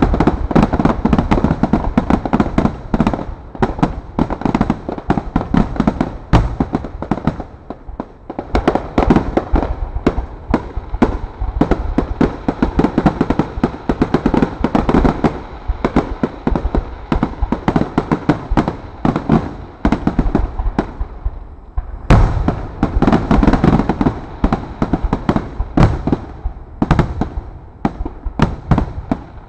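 Aerial fireworks shells bursting in rapid succession, a near-continuous barrage of bangs over a low rumble. There is a brief lull about two-thirds of the way through, then heavy bursts again.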